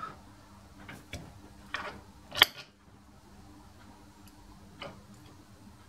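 A few sharp clicks and knocks of metal being handled at a lathe, the loudest about two and a half seconds in, over a faint steady hum.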